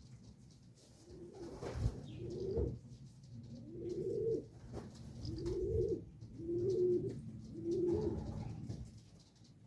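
Pigeon cooing: a series of about six low, rounded coos, roughly one a second, with a couple of soft thumps about two seconds in.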